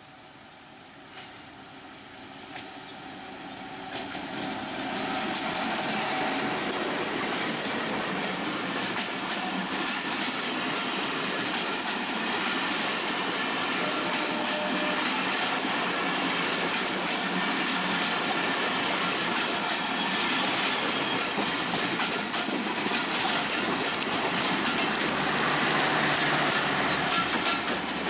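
Broad-gauge express train passing close by. The sound builds over the first five seconds as the WDM-3A diesel locomotive arrives, then the passenger coaches run past with a steady rumble and a rapid clatter of wheels over the rail joints.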